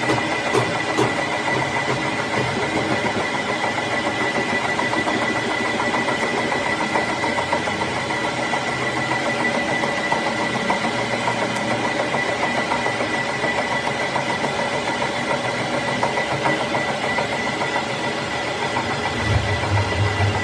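Metal lathe running steadily, with a constant high whine over the machine noise; a deeper hum joins near the end.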